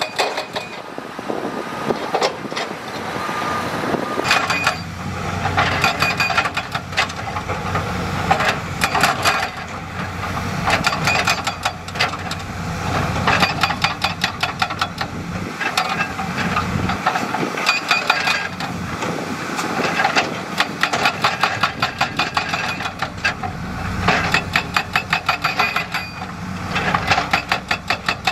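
Heavy diesel construction machinery working: engines running under a dense, irregular clatter of metal knocks and rattles, which turns into a fast, regular knocking near the end.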